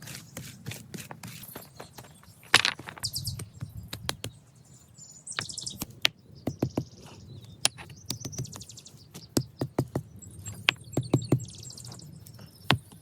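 Irregular sharp clicks and knocks, with several short high bird chirps in between.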